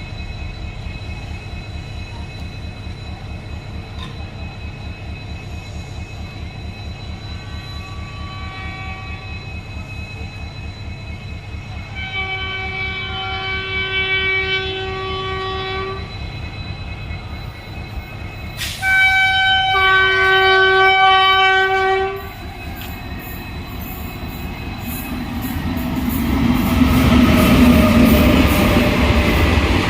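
Train locomotive horn sounding two long blasts, the second louder, over the steady rhythmic rumble of a train. The rumble grows louder near the end.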